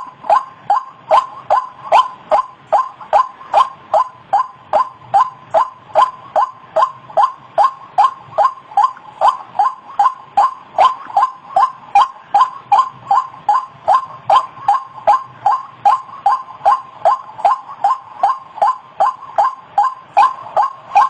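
White-breasted waterhen (ruak-ruak) calling, one short note repeated over and over at an even pace of about two to three a second.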